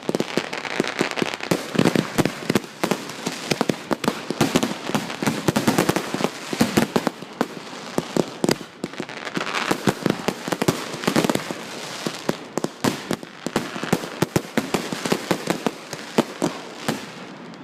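Fireworks going off in rapid succession: a dense, continuous run of sharp bangs and crackles over a steady hiss, swelling in several waves.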